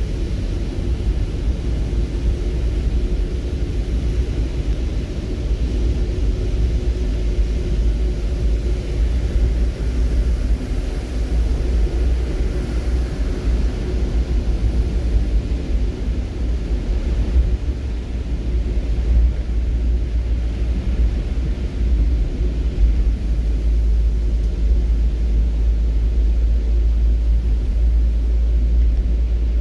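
A steady low rumble with a light hiss above it, unchanging throughout.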